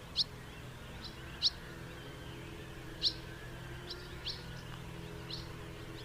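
House martins giving short, sharp chirping calls at irregular intervals, the loudest about a second and a half in and about three seconds in, over a faint steady low hum.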